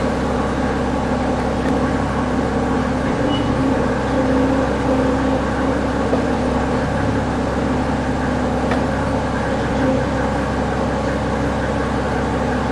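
Mercedes-Benz OM603 3.5-litre turbodiesel straight-six idling steadily while still cold, a few minutes after a cold start.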